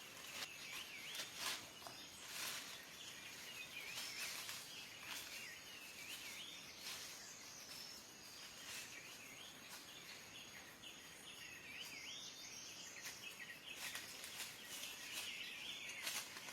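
A songbird singing faintly, a string of short wavy chirping notes repeated again and again, with a few scattered clicks.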